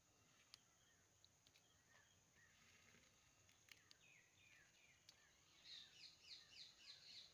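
Faint rural ambience: a steady high insect hum, with a few small clicks. In the last couple of seconds a bird sings a quick series of short falling notes, about three a second.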